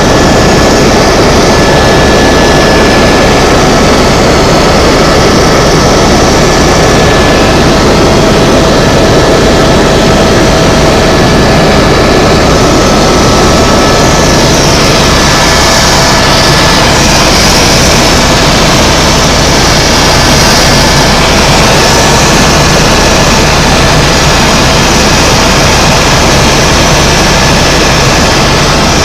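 Tour helicopter's turbine engine and rotor running steadily in flight: a loud, even drone with a steady high whine over it.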